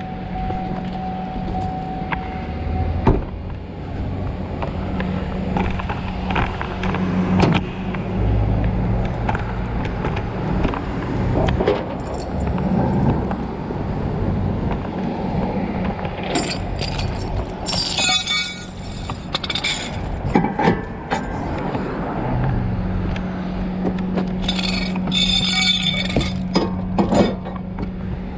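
A vehicle running steadily with a low hum, with scattered knocks and two spells of jingling, clinking rattles, one about sixteen seconds in and another near the end.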